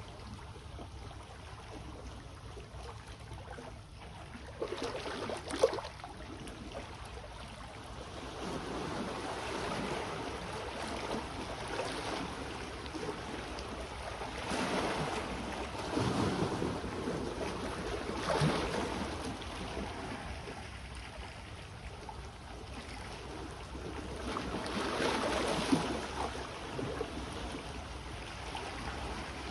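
Small sea waves washing in on the shore, swelling and falling back every few seconds, with a few sharper splashes. Under them is a steady low rumble of wind on the microphone.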